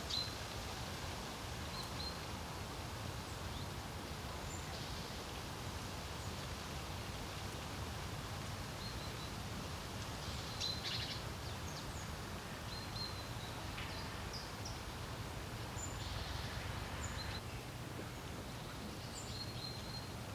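Steady wind with a low rumble, and songbirds giving short, high chirps and whistles scattered throughout.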